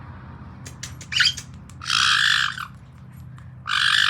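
Pet caique parrot calling: a short chirp, then two long, harsh squawks, one about two seconds in and one near the end.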